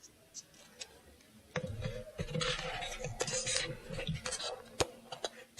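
Coloured paper strips and a small plastic PET bottle being handled, with paper rubbed and pressed onto the plastic. A scratchy rubbing runs for about three seconds, starting a second and a half in, and ends in a few sharp clicks.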